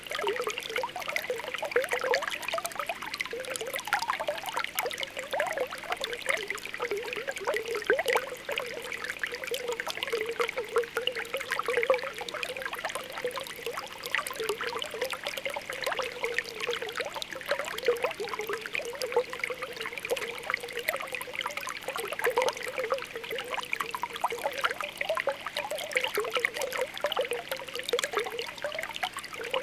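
Spring water welling up from the ground in a continuous bubbling and popping, with a steady trickle underneath.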